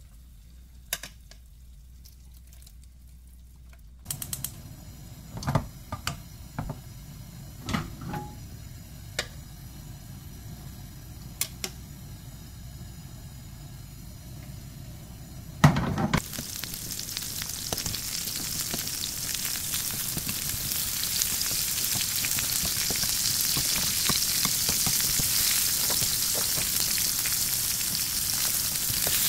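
King oyster mushroom slabs and onion slices frying in rendered smoked-duck fat in a nonstick pan. At first there are only a few light clicks and knocks; about 16 seconds in comes a loud knock, then a steady sizzle that grows louder toward the end.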